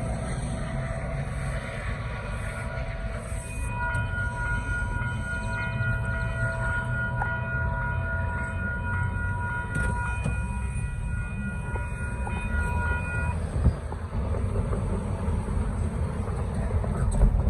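A freight train rumbles along the tracks while a locomotive's multi-chime air horn sounds one long chord of several notes, starting about three seconds in and cutting off about ten seconds later.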